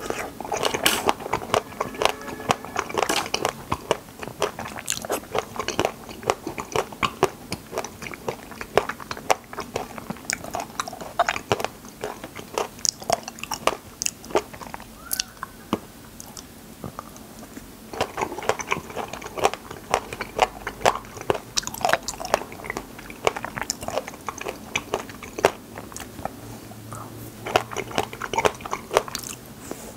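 Close-miked mouth chewing and biting wild raspberries: a dense run of irregular sharp clicks and smacks that thins out for a couple of seconds about halfway.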